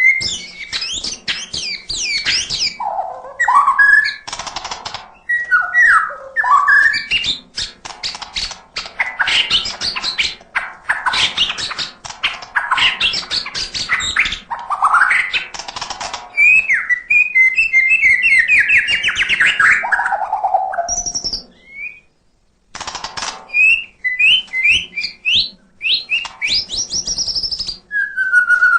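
White-rumped shama (murai batu) singing a long, varied song of clear whistles, fast trills and sweeping rising and falling notes, packed with mimicked calls, breaking off briefly about 22 seconds in.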